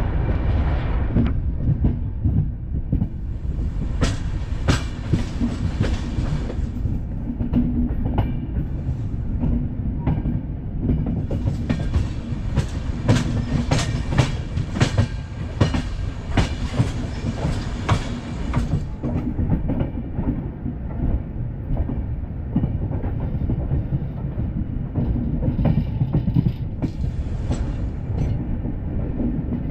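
Passenger express train running at speed: a steady rumble of wheels on rail with repeated clickety-clack over the joints, and spells of sharper clattering a few seconds long, the longest in the middle.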